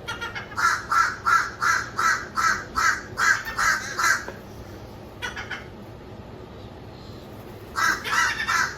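Crow cawing in a fast run of about a dozen calls, roughly three a second, then one brief call, then another rapid run starting near the end.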